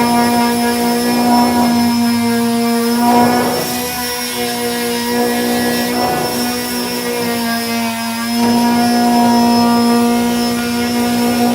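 Power sander with a 240-grit disc running steadily, sanding down body filler; its steady motor hum drops a little for a few seconds midway, then comes back up.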